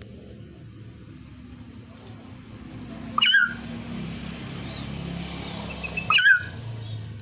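Common hill myna giving two loud, sharp whistled calls about three seconds apart, over a faint, thin high-pitched steady note.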